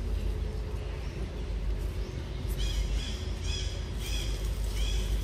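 A bird calling in a series of short, arched chirps, about two a second, starting about halfway through, over a steady low rumble.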